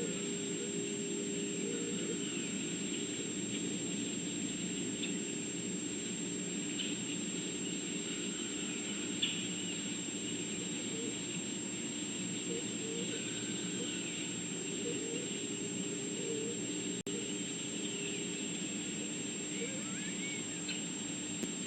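Steady outdoor background noise with a constant thin high whine, and faint short chirps now and then.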